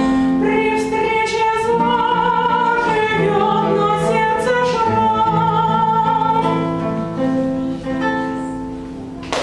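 A song ending: a singer holds long notes over acoustic guitar accompaniment, and the music fades out near the end.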